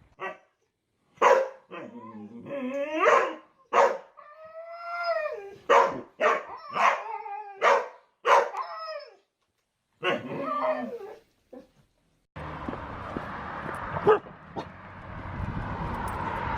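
Siberian husky giving a string of short barks and drawn-out howling "woo" calls that slide up and down in pitch, about a dozen in all. Near the end they stop, a steady background noise comes in suddenly, and there is one sharp knock.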